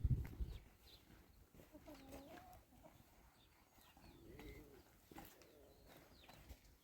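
A hen giving two low, soft calls a couple of seconds apart, each rising then falling in pitch.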